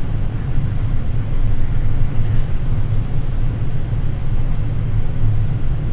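Steady low rumble on the flight deck of a Boeing 787 on final approach with the landing gear down and flaps extended, strongest in a deep band and even throughout.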